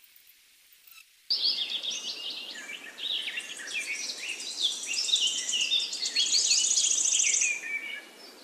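Birdsong: birds chirping and whistling in quick overlapping phrases, starting suddenly about a second in, with a fast high trill near the end.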